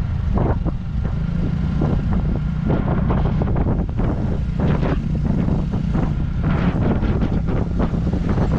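Motorcycle engine running steadily under way, with heavy wind buffeting on the microphone.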